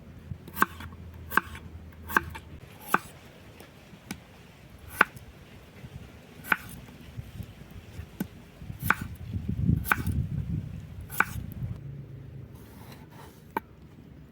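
Knife chopping food on a cutting board in single sharp strikes: four in quick succession, about one a second, then more widely spaced chops. A louder low rustling comes in around ten seconds in.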